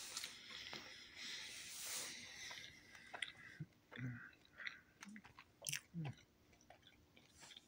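A person chewing pizza close to the microphone: a soft breathy hiss for the first couple of seconds, then faint, scattered wet mouth clicks and smacks that die away near the end.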